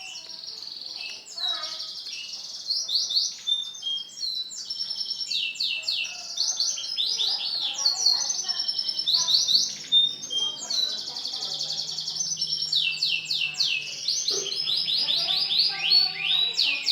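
Male white canary singing a long, continuous song of fast trills and rapid repeated notes, the phrases changing every second or so.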